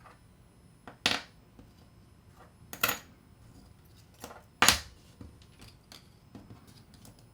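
Small metal parts of a disassembled star drag reel clinking as they are handled and set down: three sharper clinks among a few lighter taps.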